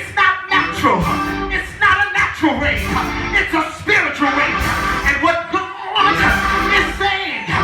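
Church music: a voice singing over instrumental accompaniment.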